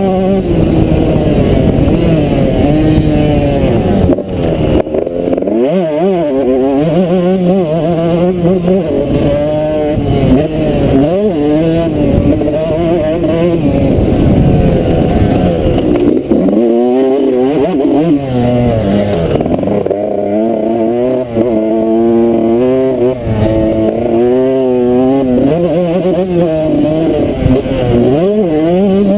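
Suzuki RM125 two-stroke motocross engine revving hard and backing off over and over as the bike is ridden around a dirt track, its pitch climbing and dropping with each throttle opening and gear change.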